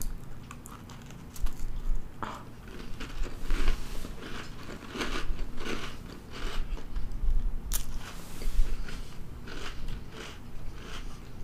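A person biting into a soft-baked Pillsbury Cinnamon Toast Crunch cookie and chewing it close to the microphone, a run of irregular chewing clicks and mouth sounds.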